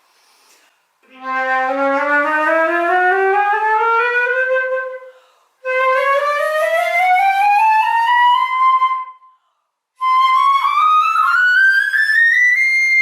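Metal concert flute played from its lowest note to its highest in three rising runs of about an octave each, with short breaths between them; the last run ends on a held high note.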